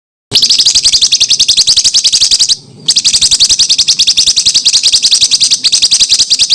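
A songbird's very fast trill of sharp, high repeated notes, the rapid-fire 'tembakan' phrase used as masteran tutor song for contest songbirds. It breaks briefly about two and a half seconds in, then carries on.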